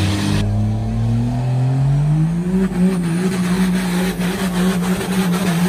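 Vehicle engine revving up, its pitch climbing steadily for about two and a half seconds, then held at high revs with a slight waver.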